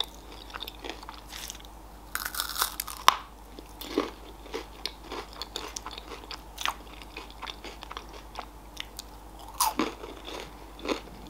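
Close-up chewing of a Raffaello coconut-almond candy: the crisp wafer shell crunching in many small irregular cracks and clicks, with a louder crunch about two to three seconds in.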